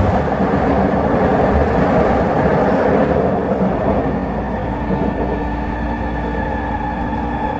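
Vancouver SkyTrain car running along the track, a steady rumble of wheels and rails. About halfway through, a steady whine with several tones joins in.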